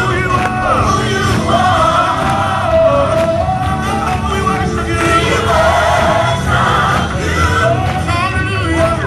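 Live gospel music: singing voices over a steady bass-heavy band, with some shouts from the congregation.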